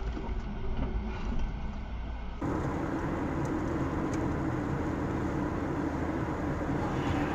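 Dashcam recording of a car on the road: steady engine and tyre noise. About two and a half seconds in, the noise changes abruptly to a slightly louder, hissier running noise.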